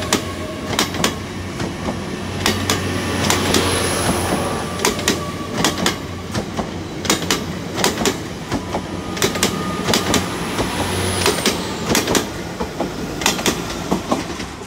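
Class 800 bi-mode IET train moving off under diesel power: a steady low engine hum with a high thin whine that falls away about eleven seconds in, and a run of sharp clicks as the wheels cross rail joints and pointwork.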